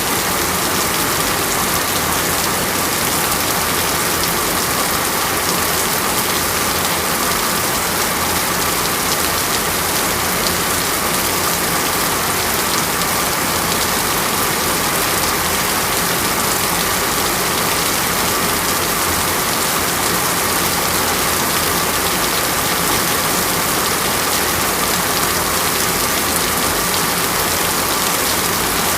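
Steady heavy rain falling on surfaces, a dense even hiss without breaks or thunder.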